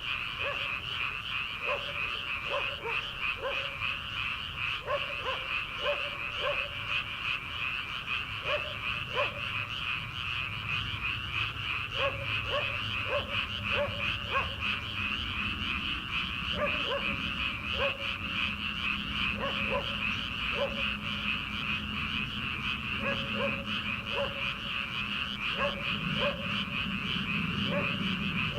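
Many frogs calling together from rice paddies: a dense, steady high-pitched chorus, with a lower-pitched frog's short croaks repeating irregularly over it, often in quick runs of two to four.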